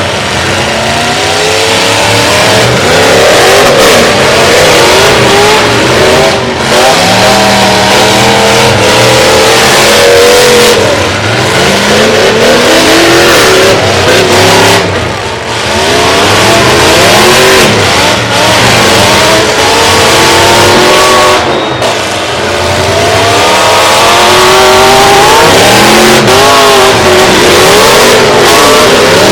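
Several derby trucks' engines revving hard at once, many overlapping engine notes rising and falling over each other as they drive and jostle on the track.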